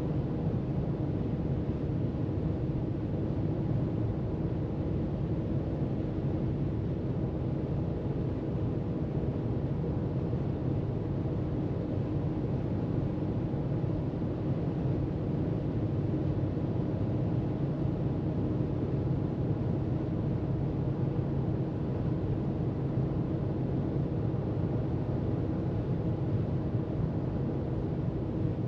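Car cruising at freeway speed: steady road and engine noise, an even low rumble with a faint steady hum.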